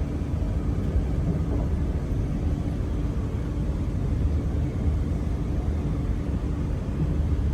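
Passenger train carriage interior: a steady low rumble from the running train, with a constant low hum underneath.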